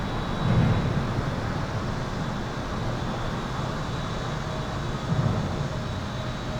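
Highway traffic heard from under an overpass: a steady low rumble with two louder low swells from passing vehicles, about half a second in and about five seconds in. A faint steady high-pitched tone runs underneath.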